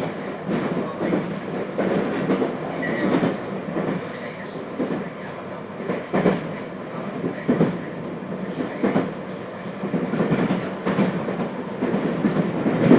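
Running sound inside a JR Hokkaido 721 series electric multiple unit, heard from the motor car: a steady rumble of the train on the rails, with the wheels clacking over rail joints repeatedly.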